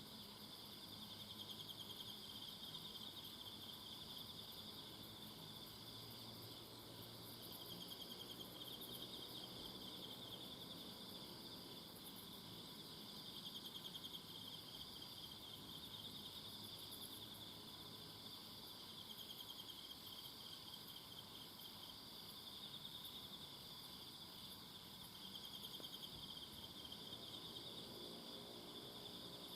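Faint, continuous chorus of singing insects: a rapid, even trill around a high pitch that swells and fades every few seconds, with thinner, higher chirping above it.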